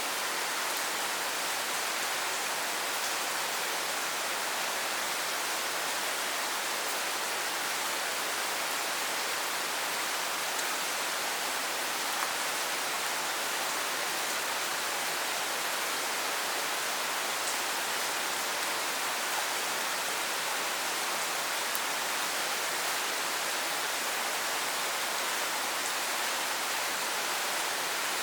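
Steady rain falling, an even, unbroken hiss of drops with a few faint separate drop ticks.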